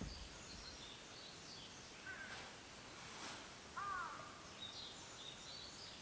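Faint birdsong: small birds chirping in short high notes, with one louder arched call about four seconds in.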